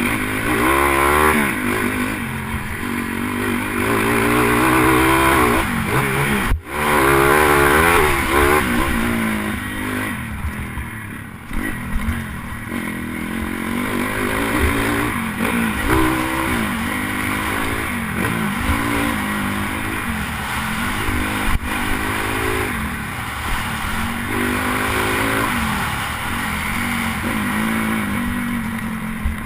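Pit bike engine revving up and falling back over and over as it is ridden hard round a motocross track, the throttle opening and closing through the corners and gear changes. Heard from a helmet camera, with wind noise over it.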